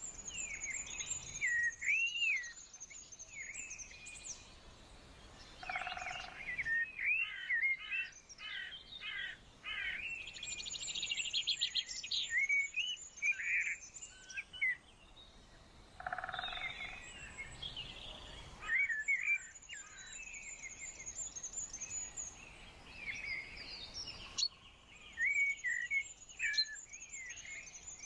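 Several songbirds singing: varied short chirps and whistles, with a thin, very high, rapid trill that comes back four times.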